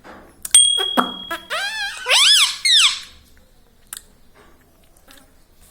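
Pet parrot calling: a held high whistle about half a second in, then a quick run of squeaky calls sliding up and down in pitch, then quiet with a faint click.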